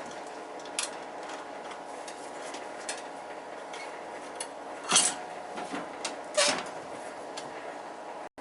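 Metal tools and parts clinking and clattering while an oil burner's control is being taken off and swapped: small scattered clicks, then two louder clanks about five and six and a half seconds in, over a steady background hum.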